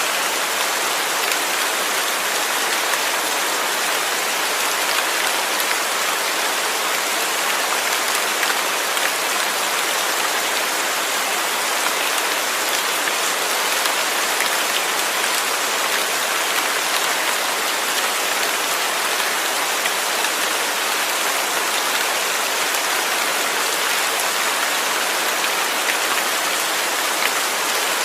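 Steady rain falling: a continuous, even hiss of many raindrops, mostly high-pitched, with no change in strength.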